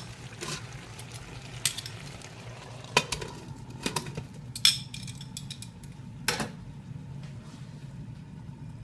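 About six sharp metal clinks and knocks on a cast iron pan as it is stirred and covered with its lid, the loudest about four and a half seconds in, over a faint steady hum.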